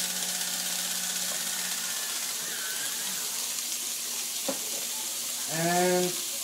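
Onions, carrots and bell peppers sizzling steadily in a hot wok with red curry paste, freshly added to the pan. A single light click sounds about four and a half seconds in.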